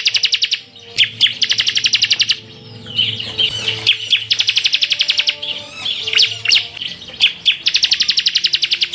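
Bar-winged prinia (ciblek) singing: about four bursts of very fast rapid-fire trills (the 'tembakan'), each about a second long, alternating with varied high chirps and twitters. A faint low hum sits underneath.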